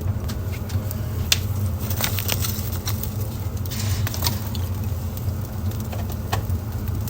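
Wood fire in a fireplace crackling: scattered sharp pops and snaps over a steady low rumble of the burning, with a brief hiss about four seconds in.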